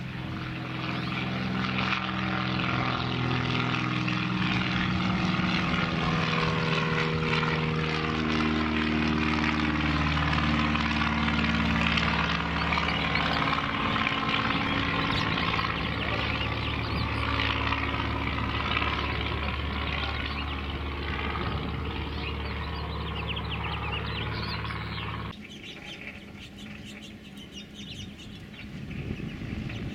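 Cessna 172's piston engine and propeller running, its pitch drifting slowly downward partway through. The engine sound stops abruptly about 25 seconds in.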